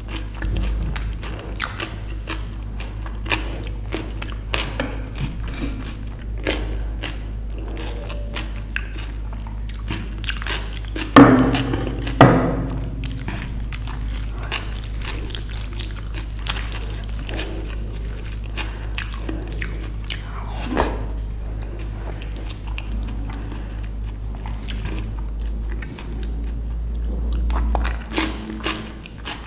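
Close-miked eating sounds: a person chewing and biting mouthfuls of dal and rice, with many small wet clicks and some crunching. Two sharp knocks with a short ring come about eleven and twelve seconds in, over a steady low hum.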